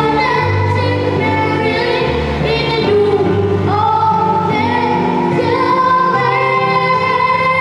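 Children's choir singing a Christmas carol with instrumental accompaniment: long held sung notes over a steady bass line.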